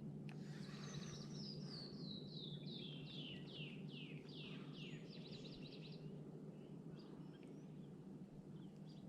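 A songbird singing a cascading song: a run of clear whistled notes that slide down in pitch, each lower and longer than the last, ending in a quick high trill. A steady low hum runs underneath.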